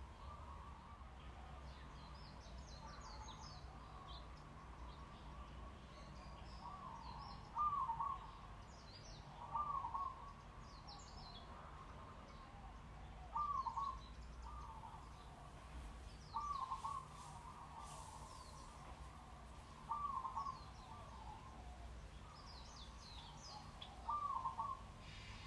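Birds chirping, with one bird giving a short, hooked call six times, every few seconds. A faint low hum runs underneath.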